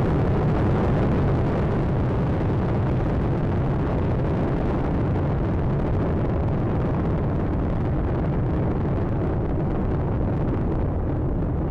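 Space Shuttle Atlantis's solid rocket boosters and main engines as it climbs after liftoff: a steady, loud rumble with most of its weight low down. Its higher part slowly fades toward the end as the shuttle draws away.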